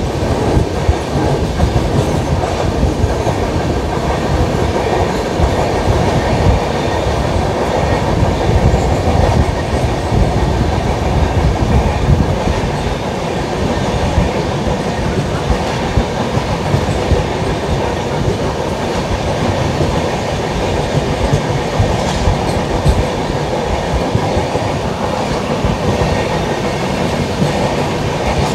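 LHB passenger coaches running along the track at speed: steady wheel-on-rail noise with a rapid clickety-clack over the rail joints.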